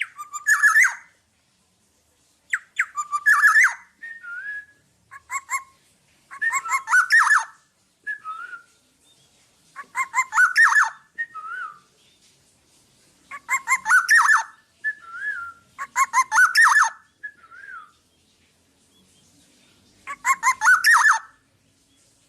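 Black-naped oriole (kepodang) singing: bursts of quick notes about a second long come every three to four seconds, with short slurred whistles between them.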